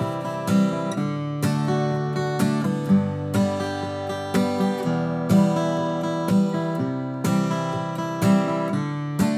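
Acoustic guitar strummed at a brisk tempo in a campfire rhythm, with a bass note, accented strokes about once a second on beats 2 and 4, and light upstrokes on only the top strings in between. The chord changes a few times.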